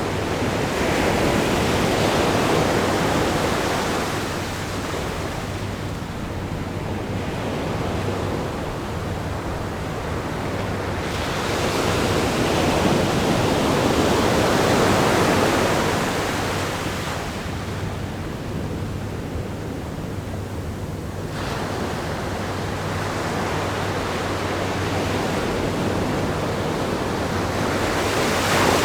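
Ocean surf breaking and washing against a rock groin on a sandy beach, a steady rush that swells and ebbs as each set of waves comes in, loudest a couple of seconds in, again around the middle, and in a short sharp surge near the end.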